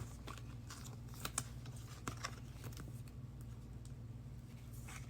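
Football trading cards being flipped through by hand: faint, scattered clicks and snaps of card edges over a low steady hum.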